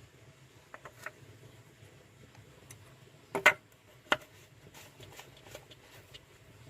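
A few short clicks and knocks over a faint steady low hum, the loudest a quick double knock about three and a half seconds in and a single sharp knock just after.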